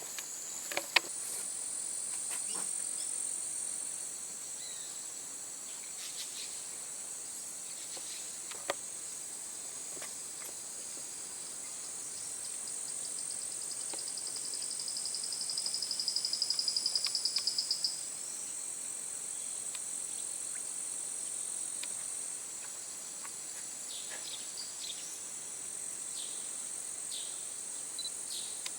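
Rainforest insect chorus with a steady high-pitched buzz. A fast pulsing trill joins it partway through, swells and then stops abruptly. Two sharp clicks are heard early on, and a few short chirps come near the end.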